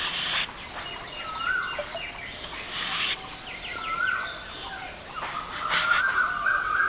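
A bird calling: two short calls, then one long, steady, fluttering call from about five seconds in. Faint scraping of a blade peeling a potato underneath.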